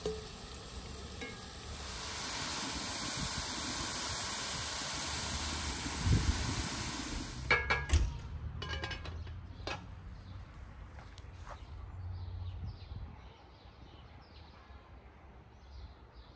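Stinging nettles sizzling in a hot pot on a wood-burning stove: a steady hiss that stops sharply about seven and a half seconds in. A few metal clanks follow, as of the pot lid, and then a quieter outdoor background.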